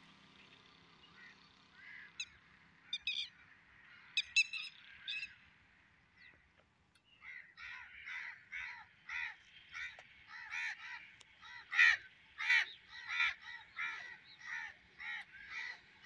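A bird giving harsh, short, repeated calls. A few scattered calls come first, then from about seven seconds in a steady run of about two calls a second.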